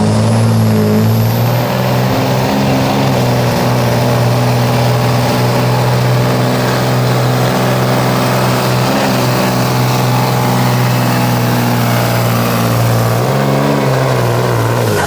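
Pickup truck engine running loud at steady high revs, as in a truck-pull run, with a brief dip in revs near the end.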